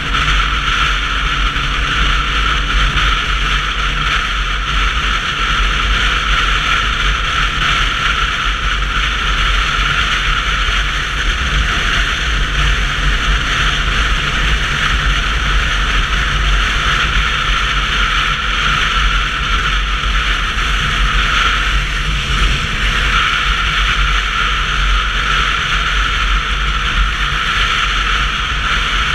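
Steady wind and road noise from riding a Sinnis Terrain 125cc motorcycle, picked up by the GoPro's built-in microphone, with a low rumble beneath a strong hiss. It holds even throughout, with only a slight dip a little past the middle.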